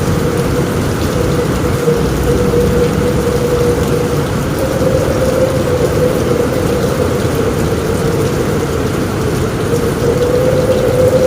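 Steady heavy rain drumming on a roof, an even wash of noise with a constant low tone running through it and no distinct thunderclap.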